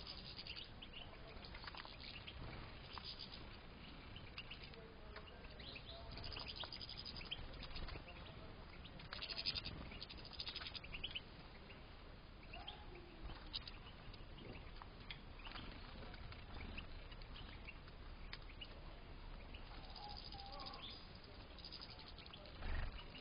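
A flock of European goldfinches in an aviary, giving scattered short, high chirps and twitters, with a low thump near the end.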